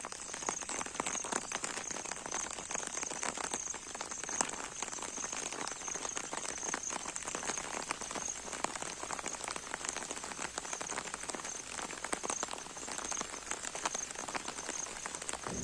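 Rain falling, a dense patter of many small drops, with a high, pulsing tone running steadily beneath it.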